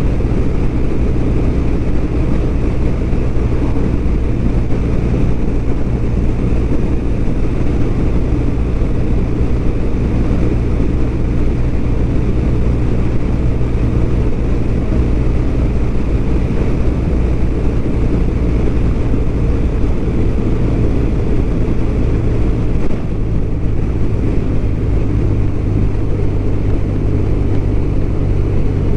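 BMW R1200RT's boxer-twin engine running steadily at cruise, with constant wind and road noise from riding.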